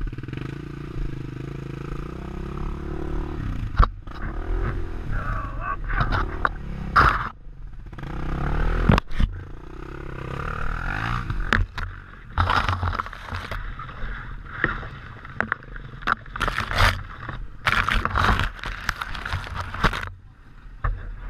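Off-road motorcycle engines revving in repeated bursts that rise and fall in pitch, rear wheels spinning and scraping in loose dirt on a climb where the bikes are stuck digging in. Sharp knocks and clatter come through, with voices shouting.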